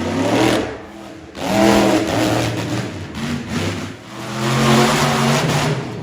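Monster truck engine revving hard in repeated surges, three loud throttle bursts with the pitch climbing and falling away between them.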